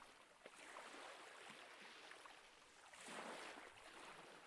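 Faint recorded ocean waves: surf washing in as a soft hiss, with one swell building and breaking about three seconds in.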